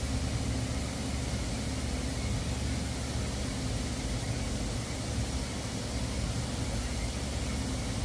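Welding arc laying a stainless-steel root pass with 308 filler: a steady hiss over a low hum, unbroken throughout.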